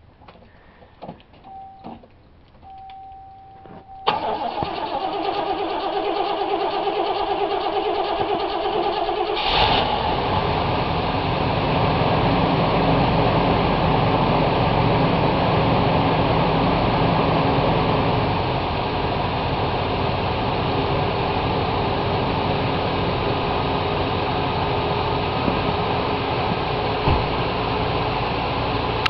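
Oldsmobile 307 V8 with Rochester four-barrel carburettor being cold-started after five months of sitting. A short tone sounds twice. The starter cranks for about five seconds, the engine catches about nine seconds in, and it settles into a steady high idle.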